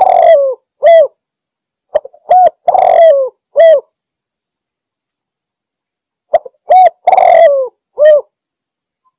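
Spotted dove cooing its territorial call: phrases of a couple of short coos, a longer coo that falls in pitch at its end, and a final coo. The phrases repeat roughly every four seconds with silent gaps between, the kind of call used to lure rival males.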